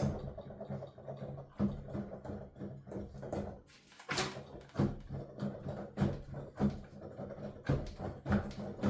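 Digital piano keys played with the sound going only to headphones: the repeated thud and clack of the keys and key action in an irregular playing rhythm, with no piano tone of its own.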